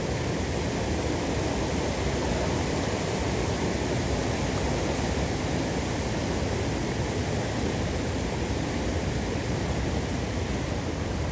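Waterfall rushing, a steady, even noise of falling water that does not change.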